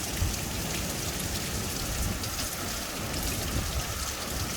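Heavy rain falling steadily during a wind storm, with gusting wind rumbling low underneath.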